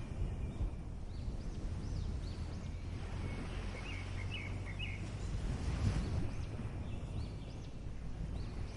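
Gentle ocean surf washing steadily, with small birds chirping many times over it, short rising and falling calls.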